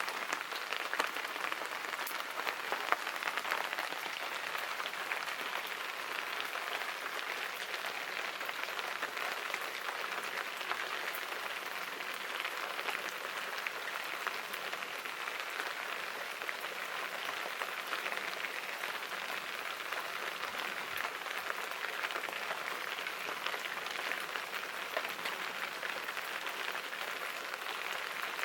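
Steady rain pattering, a dense even hiss of many small drops.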